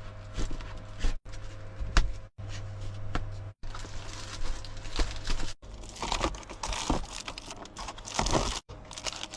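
Crinkling and rustling of material being handled, with scattered knocks and clicks, over a steady low hum; the sound cuts out abruptly several times.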